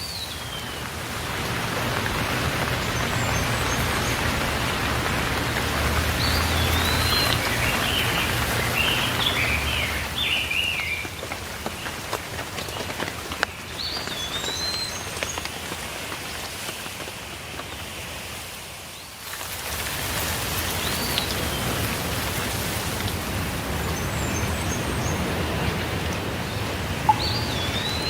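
Steady rain falling, with songbirds chirping in short phrases several times over it.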